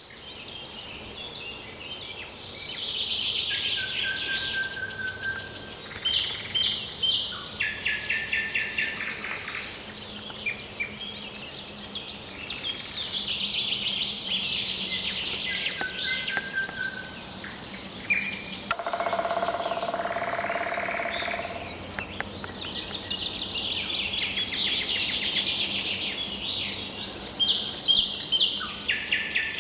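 Songbirds singing: a long, high, fast trill repeats about every ten seconds, with shorter chirps and whistled notes between the trills. A lower, buzzier call is heard about two-thirds of the way through.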